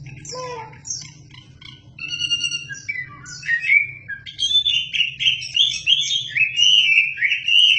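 A wambi songbird singing without pause: a fast string of whistled notes and slurred glides that grows louder and fuller partway through.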